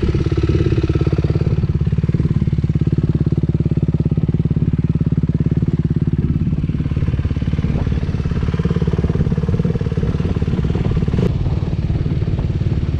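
Dirt bike engine running steadily at low revs just after being started, with a fast, even firing pulse.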